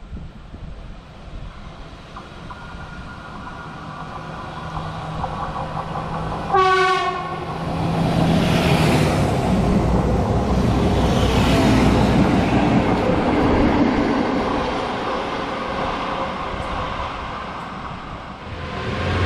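SA138 diesel railcar hauling a bicycle wagon, approaching with a rising engine hum. It gives one short horn blast about six seconds in, then passes close by with loud wheel and engine rumble that eases off towards the end.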